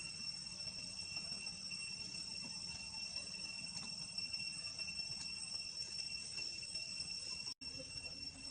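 Insects chirring steadily in a high, unbroken drone, over a low rumble.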